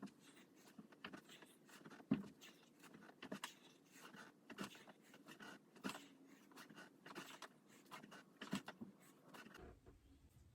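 Faint, irregular rustling and light knocks of a person moving through a bodyweight exercise, with soft clicks every second or so. They stop abruptly near the end.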